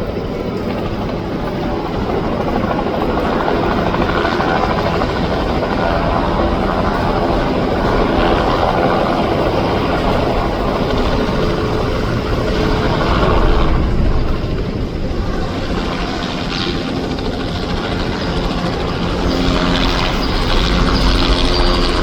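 Helicopter running loud and steady, its rotor giving a fast, even pulsing beat, growing slightly louder toward the end.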